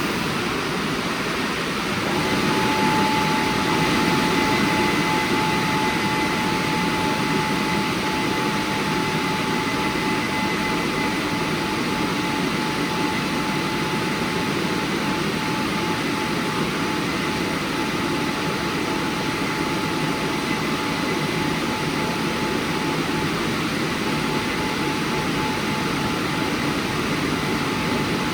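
WashTec SoftCare² Pro rollover car wash running: a steady, loud rushing noise, with a thin whine that comes in about two seconds in.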